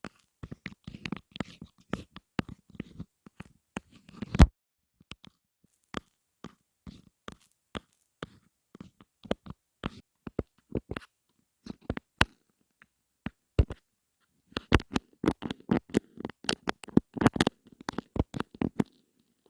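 Close-miked ASMR taps and clicks in an irregular pattern, with denser scratchy rustling in the first four seconds and again from about 14 to 19 seconds. A heavier tap about four seconds in is the loudest.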